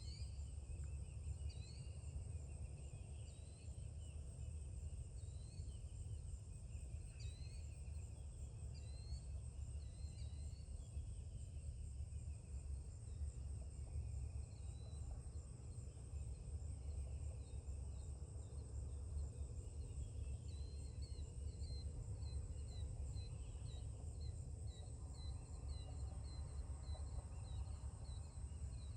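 Birds chirping at sunrise in short rising notes. About two-thirds of the way in, a quick run of repeated chirps begins. Under them are a steady high insect trill and a low, steady rumble, which is the loudest sound.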